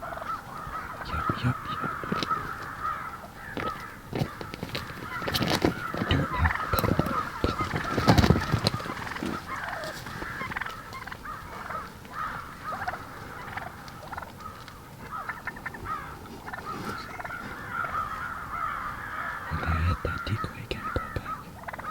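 Wild turkeys calling, a steady run of rapid calls throughout. Several knocks and thumps come between about five and nine seconds in, the loudest about eight seconds in.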